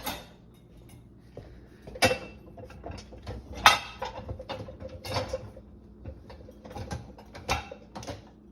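Irregular light clattering and rustling, a handful of sharp knocks spread unevenly, the loudest a little under four seconds in.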